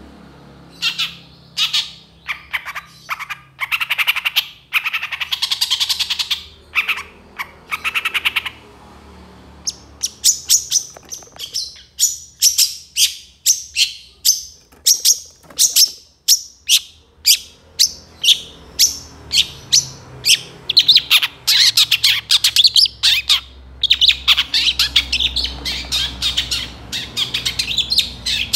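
Long-tailed shrike (cendet) singing a loud, varied song. Dense warbled phrases break off briefly about eight seconds in, then comes a long run of short, sharp repeated notes, about three or four a second, before the dense warbling returns near the end.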